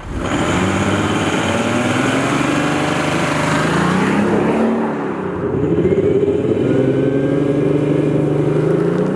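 Audi S5 Sportback TDI's 3.0 V6 turbo-diesel engine accelerating, its pitch climbing for about four seconds, dropping briefly at a gear change about five seconds in, then climbing again.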